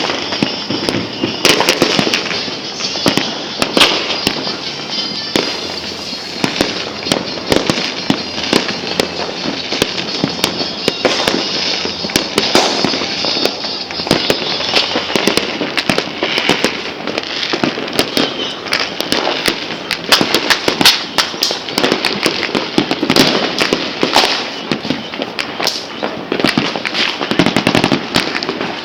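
Many fireworks and firecrackers going off at once, a dense, unbroken stream of overlapping bangs and crackles.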